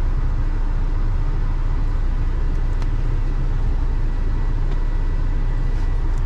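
Semi truck's diesel engine idling, a steady low rumble heard inside the cab.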